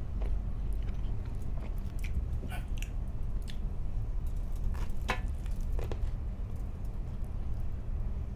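Close-miked chewing of food with wet mouth smacks and a few sharp clicks, over a steady low hum.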